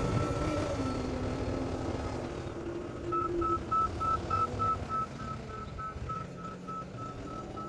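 Heavy construction vehicle's engine running and fading away, with a high reversing alarm beeping about four times a second from about three seconds in.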